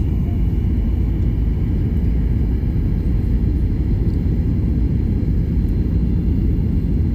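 Aircraft in flight, heard from inside the cabin: a loud, steady, even rumble of engine and airflow noise.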